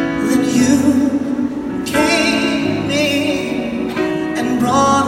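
A singer holds long notes with vibrato in a slow pop ballad, sung live with instrumental accompaniment.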